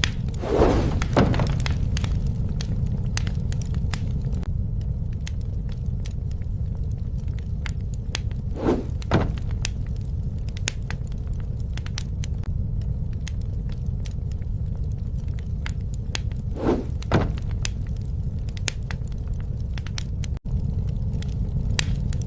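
Campfire burning, a steady low rumble with scattered sharp crackles and snaps. Three times, about eight seconds apart, a pair of dull knocks comes half a second apart, with a momentary dropout near the end.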